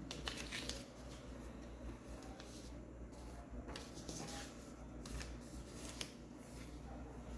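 Mallory Fresh Air 30 cm electric table fan running: a steady low motor hum under a haze of air noise, with scattered short rustling clicks.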